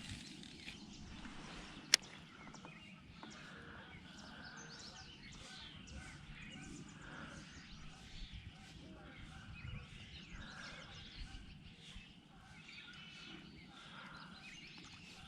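Faint outdoor ambience with birds chirping here and there over a low background rumble. A single sharp click comes about two seconds in.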